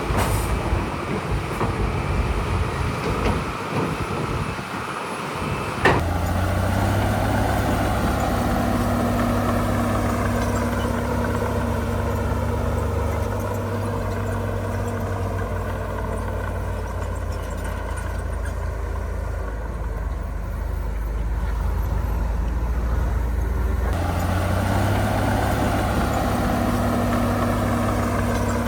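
Heavy construction-machine diesel engine running, steady after a sharp short squeal about six seconds in; before that, an uneven rumble.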